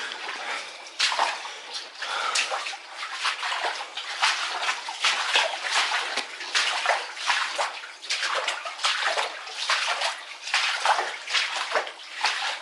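Legs wading through knee-deep water in a flooded tunnel, the water sloshing and splashing with each stride in a steady, uneven rhythm.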